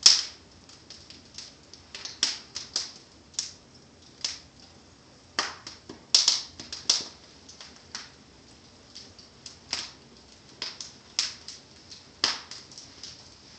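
Wood fire in a fireplace crackling, with sharp, irregular pops from the burning logs and embers coming in clusters. The loudest pops come right at the start and about six seconds in.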